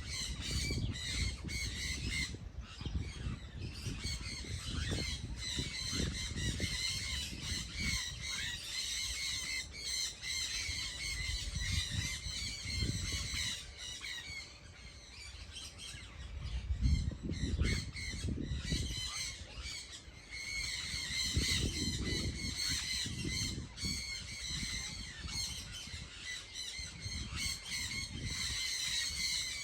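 A flock of birds chattering and squawking in a dense, continuous chorus, with an irregular low rumble underneath.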